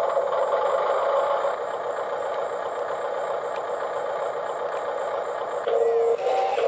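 Toy remote-controlled skid steer's speaker playing its simulated engine running sound, with a few steady electronic beeps stepping in pitch near the end.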